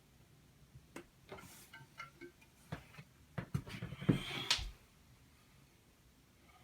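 A run of clicks, knocks and rustles from hands handling the plastic parts of a Delta Flush IQ toilet flush kit, busiest and loudest a little past the middle.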